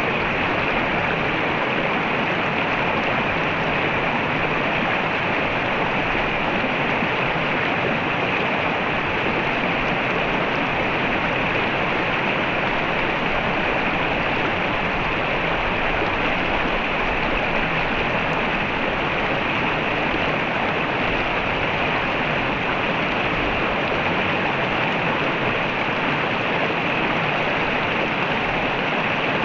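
Mountain river running over rocks: a steady rush of flowing water with no change.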